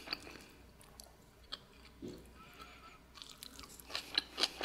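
A person chewing a mouthful of food, quiet at first, then a quick run of crisp crunching clicks near the end.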